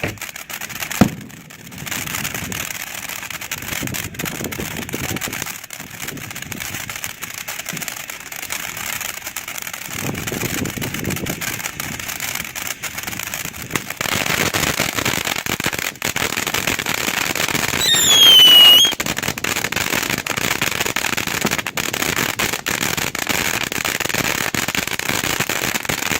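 Black Cat 'Monkeys in a Barrel' ground fountain firework burning, a dense hissing crackle that grows louder about halfway through. About two-thirds in a short whistle falls in pitch over the crackling.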